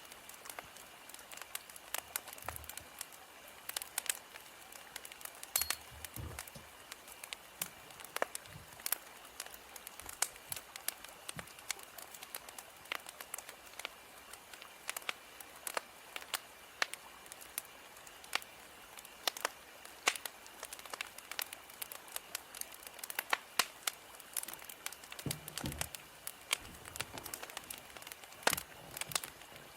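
Wood fire crackling: irregular pops and snaps over a soft steady hiss, with a few dull low thuds among them.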